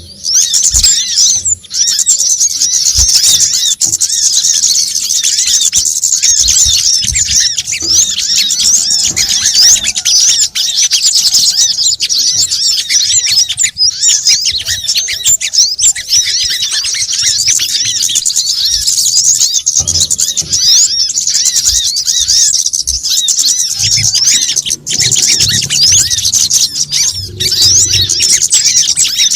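Dense, continuous, high-pitched twittering and rapid chirping of small birds, many short calls overlapping without a break. This is a bird-lure recording meant to draw in sunbirds such as the brown-throated sunbird.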